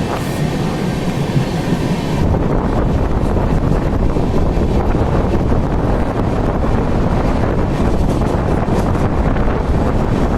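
Steady running noise of an Indian Railways express train, with wind buffeting the microphone.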